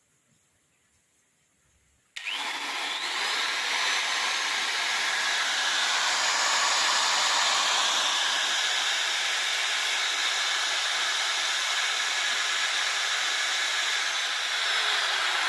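Repaired M2300B electric grinder switched on about two seconds in: its motor whines up to speed over about a second and then runs steadily, the whine sliding lower near the end. A test run showing the grinder working again after repair.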